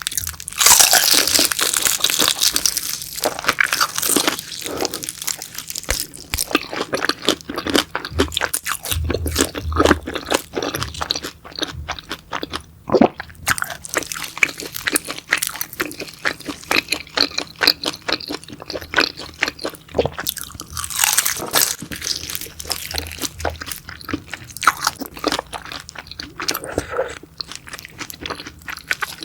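Close-miked crunching, biting and chewing of crispy beef intestines, in dense irregular crackles, loudest about a second in and again around twenty seconds in.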